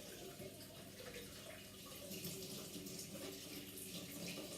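Tap water running, faint and steady, as an arm is washed at a sink.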